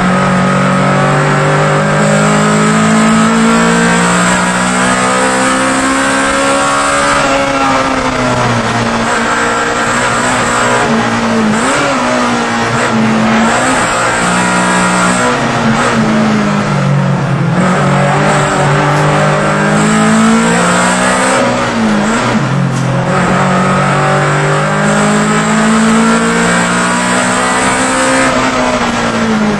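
Honda EK Civic race car's four-cylinder engine heard from inside the cabin at racing pace. It revs up and falls away again and again through the gears, with several sharp drops in pitch.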